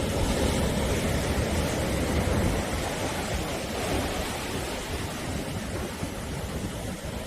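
Sea waves washing onto the shore, a continuous rushing noise with a deep low rumble, a little louder in the first few seconds and then easing off.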